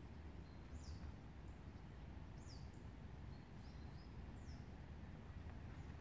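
A small bird calling: short, high notes falling in pitch, repeated about every two seconds. Under them runs a faint, steady low rumble.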